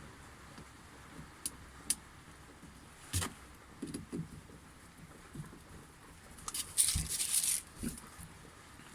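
Scattered light clicks and knocks of small parts and tools being handled while a shearing-machine motor is assembled, with a denser stretch of rustling and scraping about seven seconds in.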